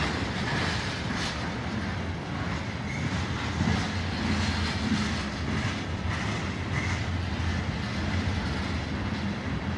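Loaded tank cars of a long BNSF freight train rolling slowly past on the rails, a steady low rumble.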